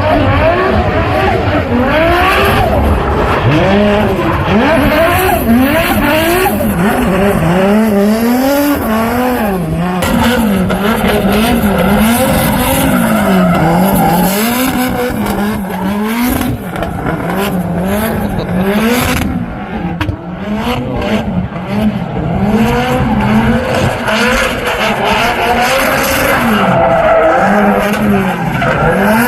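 A drift car's engine revving hard, its pitch rising and falling about once a second as the driver works the throttle, with tyres squealing as the car slides.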